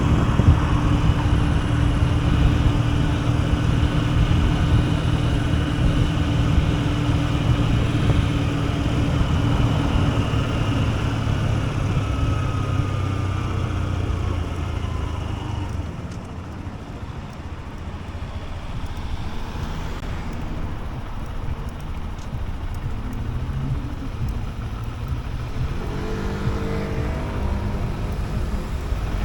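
Honda CB125F's single-cylinder four-stroke engine running on the move. Its note holds steady, eases off about sixteen seconds in, then climbs again near the end as the bike pulls away.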